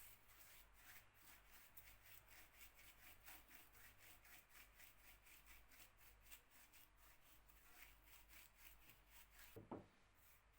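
Faint, quick rubbing strokes, several a second, like hand work on a wooden surface, over a low steady hum. There is a single thump near the end.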